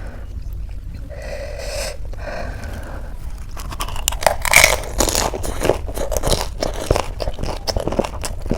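Close-miked crunching and chewing of crisp snack food in the mouth, with dense irregular crackles. It picks up about three and a half seconds in, with one loud crunching bite about a second later.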